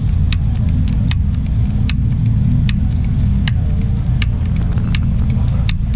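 A truck's diesel engine idling steadily, with sharp clicks at roughly even intervals of about three-quarters of a second.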